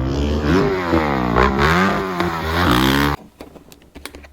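Dirt bike engine revving, its pitch rising and falling several times, then cut off abruptly about three seconds in; faint clicks follow.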